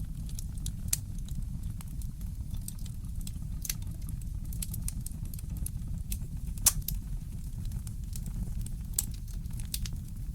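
Fireplace crackling: irregular sharp pops and snaps over a steady low rumble, with the loudest pop about two-thirds of the way through.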